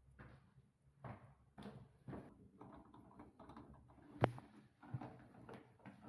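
Door handle and lock hardware being worked on: a run of irregular small clicks and knocks, with one sharp, loud click about four seconds in.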